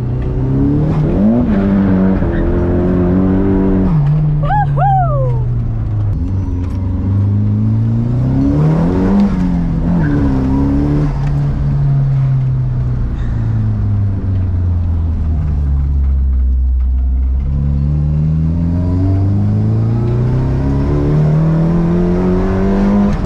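Nissan S13's turbocharged SR20DET four-cylinder engine running under throttle, its pitch climbing over several seconds and dropping several times, deepest around the middle. Just after a sharp drop about four seconds in comes a brief falling whistle.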